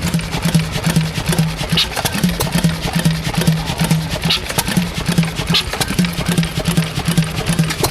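Stationary engine running with an even pulsing beat, a few beats a second, and a few short high squeaks over it.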